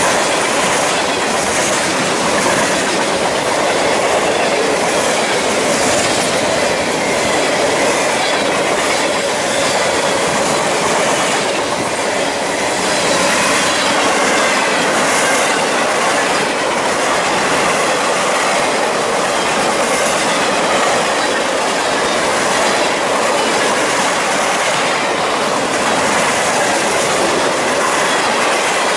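Freight train cars rolling past close by: steady wheel-on-rail noise with clicking over the rail joints and a faint, wavering wheel squeal.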